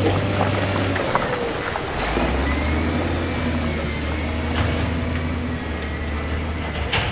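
Heavy diesel construction machinery running steadily, with scattered short knocks and clanks and a sharper knock near the end. The engine note drops a little about two seconds in.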